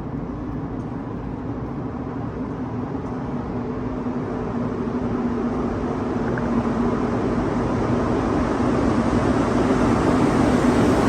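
Metro train rumbling with a steady low hum, growing steadily louder as it approaches.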